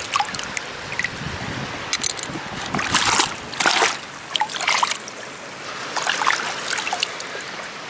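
Shallow seawater splashing and trickling as someone wades through it, with several louder splashes about three to four seconds in.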